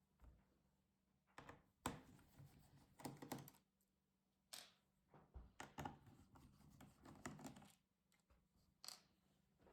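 Handling noises from a laptop being worked on: scattered short knocks, clicks and light scrapes, thickest from about five to seven and a half seconds in.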